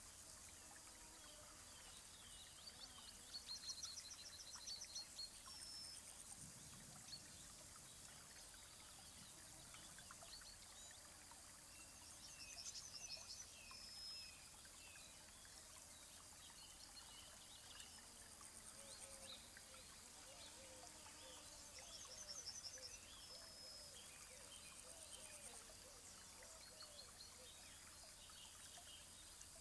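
Faint countryside ambience with birds singing: one bird repeats a short, fast trilled phrase about every nine or ten seconds, with scattered chirps from others around it.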